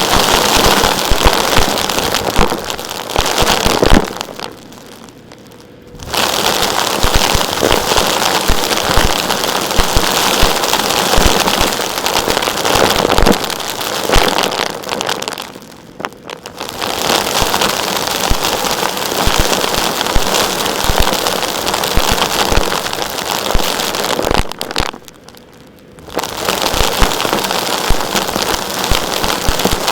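Vacuum cleaner sucking up small rocks and grit, the stones rattling and clattering densely as they are drawn in. The clatter stops briefly three times, leaving only the quieter steady run of the machine.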